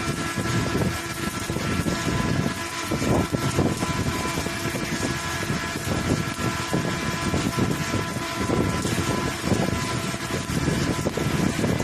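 Arc welding on large-diameter pipe: the arc crackling and sputtering without a break, over a steady machine hum.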